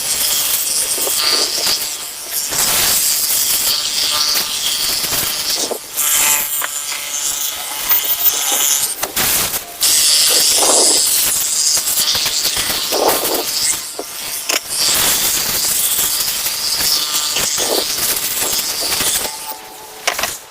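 Pressure washer spraying water onto a car in long hissing stretches, broken by short pauses.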